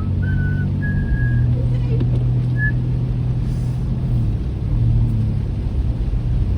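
Steady engine and road rumble of a car heard from inside the cabin while driving, with a few short whistled notes near the start.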